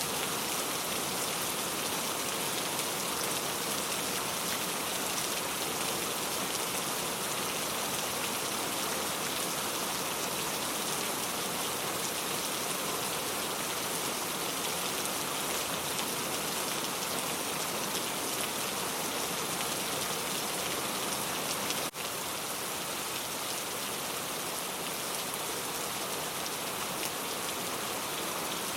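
Steady rain falling, an even, unbroken hiss of many drops on surfaces, with a momentary dip in level about three-quarters of the way through.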